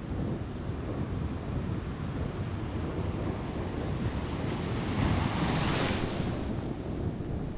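Sea wind buffeting the microphone over the sound of waves, a steady rough rumble. About five seconds in, a louder rushing gust lasts a second or so.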